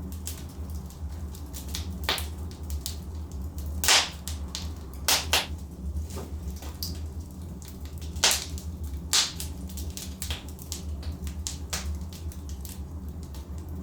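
Wood logs burning in a fireplace, crackling with sharp irregular pops, the loudest about four and eight seconds in, over a steady low rumble.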